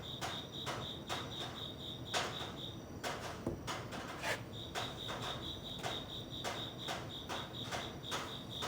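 A cricket chirping in a steady pulsing train of about six chirps a second. It breaks off for about two seconds near the middle, then carries on. Sharp clicks sound throughout, roughly twice a second.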